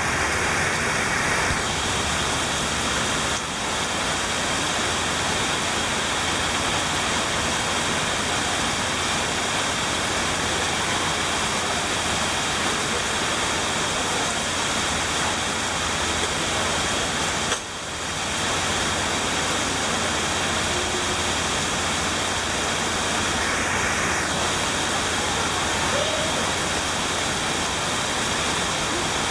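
Heavy hurricane rain pouring down steadily, a dense even hiss that breaks off for an instant twice.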